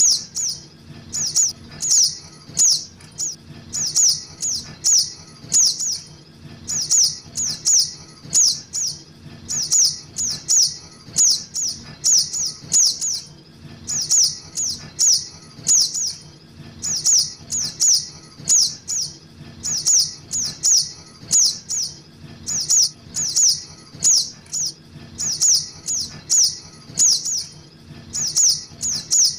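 Calls of young sogok ontong (little spiderhunter), used as a lure call: short, high chirps that drop in pitch, in quick runs of three or four, the runs repeating about once a second.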